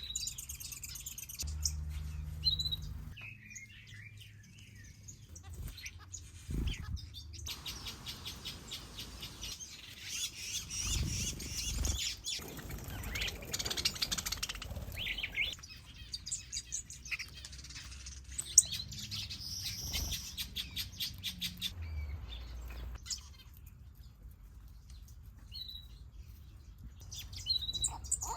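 A mixed aviary of finches and other small cage birds chirping and calling over one another, with stretches of rapid, busy chirping. There are a few low rumbles in between.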